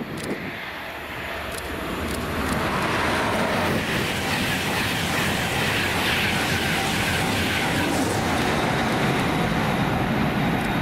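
Train passing at speed on the main line: a loud rush of wheel and air noise that builds over the first two or three seconds and then holds steady.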